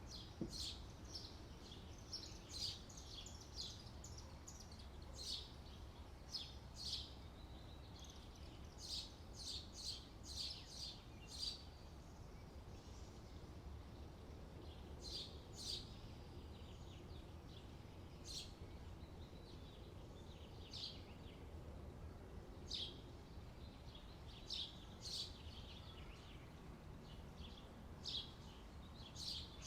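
Small birds chirping: short, high chirps in quick runs and single notes, coming irregularly throughout, over a steady low background rumble.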